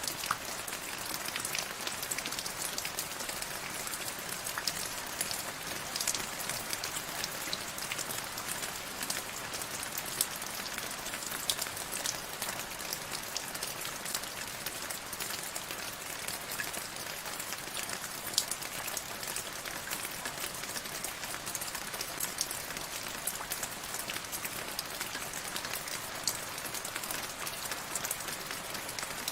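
Steady rain falling, a continuous hiss scattered with many individual drops ticking sharply.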